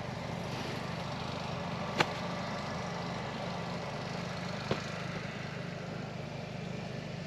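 Suzuki DR650 single-cylinder motorcycle engine idling steadily, with two short sharp clicks, one about two seconds in and one a little before five seconds.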